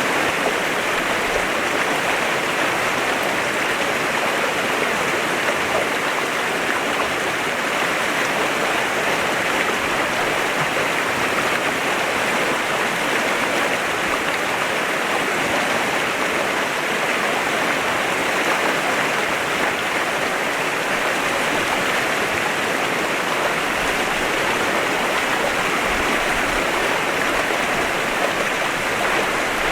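Clear mountain river flowing, a steady rush of water.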